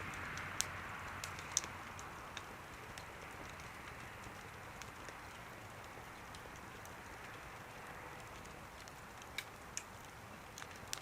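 Wood fire burning in a small stove: a steady soft hiss with scattered sharp crackles and pops, a few louder ones in the first two seconds and again near the end.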